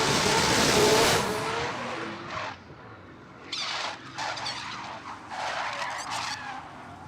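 Sports cars racing past at speed with engine and tyre noise, loudest in the first second or so, then three shorter rushes of noise later on.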